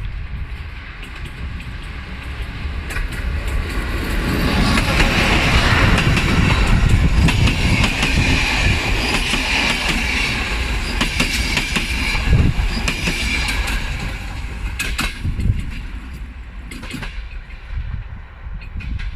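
A train passing close by: a rumble that builds about four seconds in and eases near the end, with repeated sharp clicks of the wheels over the rail joints.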